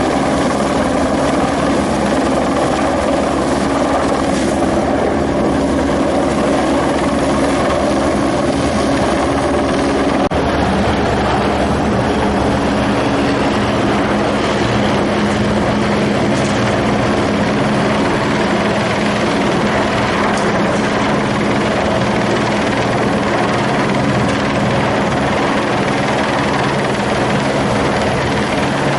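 Helicopter running steadily, a constant droning hum with no change in pitch or level.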